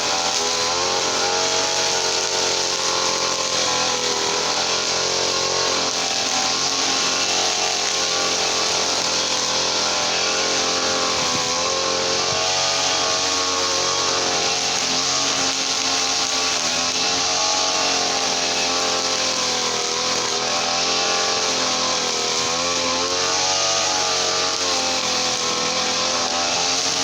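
Small two-stroke brush cutter engine (Mitsupower 328) running continuously, its pitch wavering up and down as the throttle and load change.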